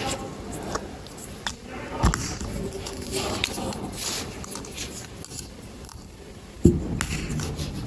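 Plastic LEGO bricks being handled and pressed together: small clicks and rustling, with two sharper plastic knocks, about two seconds in and near the end, the second the loudest.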